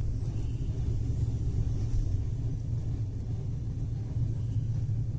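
Passenger train running along the track, heard from inside the coach as a steady low rumble.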